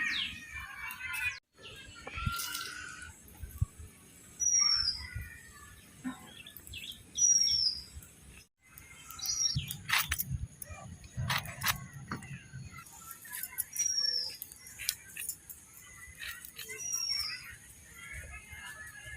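A bird repeating a short, high, falling chirp every two to three seconds, amid scattered clicks and knocks.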